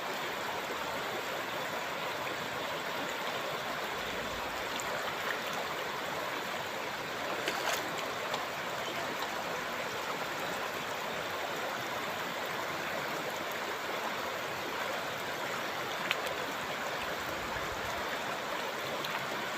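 Shallow, clear river water flowing and babbling steadily, with a couple of faint short ticks partway through.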